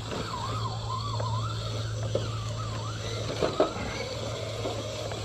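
Electric RC crawler truck motor whining, its pitch wavering up and down as the throttle is worked, over a steady low hum. Two sharp knocks a little over three seconds in.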